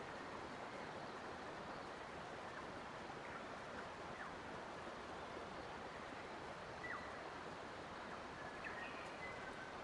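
Steady rushing of a forest stream. A few faint, short bird chirps and whistles come through it, a couple of them near the end.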